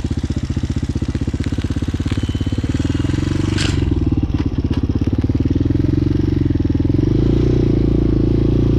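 Hawk 250 single-cylinder motorcycle engine running steadily, its revs and loudness picking up a little near the end. A brief sharp click or knock about four seconds in.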